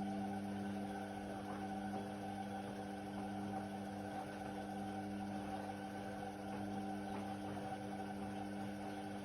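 Indesit WIDL 106 washer-dryer running mid-cycle: a steady motor hum with a low buzz and a faint rushing noise over it, holding one pitch throughout.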